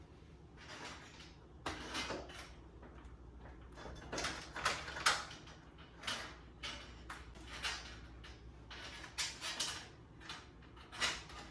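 Irregular knocks, scrapes and rattles of hand work on a stuck garage door and its hardware, as an attempt to free it fails.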